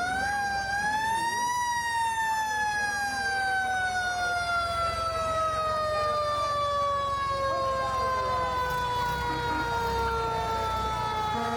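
A siren winds up briefly, then its pitch falls slowly and steadily for about ten seconds, with a low rumble underneath.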